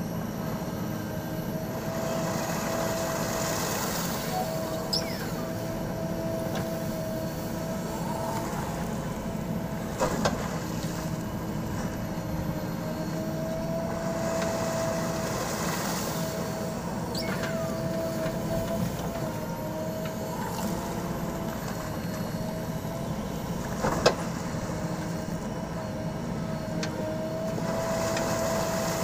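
JCB backhoe loader's diesel engine running steadily while it digs, with a steady wavering whine over the rumble. Two sharp metal knocks stand out, about ten seconds in and again about twenty-four seconds in.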